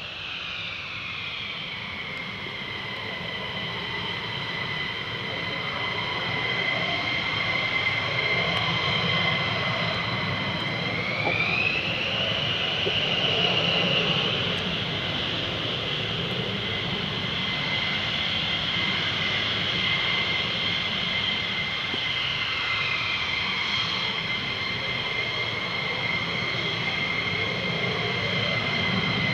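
Fighter jet engine whine with a low rumble beneath, building in loudness over the first several seconds. The whine falls in pitch near the start, rises about eleven seconds in and falls again about twenty-two seconds in.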